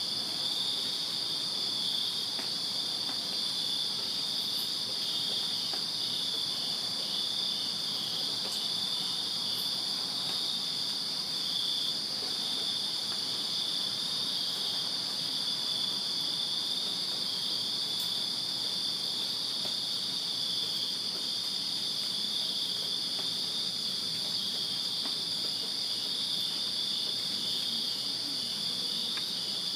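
A chorus of crickets on a summer night: one unbroken high-pitched trill with a slightly lower chirping that pulses in a steady, regular rhythm underneath.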